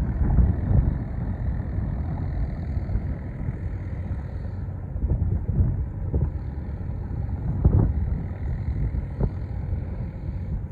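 Low, steady rumble of a boat engine on the water, with irregular low thumps of wind buffeting the microphone.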